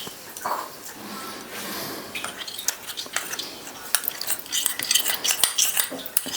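A spoon stirring cornflour and water in a small bowl, clinking and scraping against the sides, the clinks coming thicker and faster about four seconds in.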